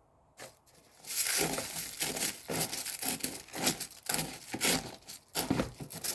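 Dry cornflakes rustling and crunching in irregular crackly strokes as they are handled and mixed in a bowl, starting about a second in.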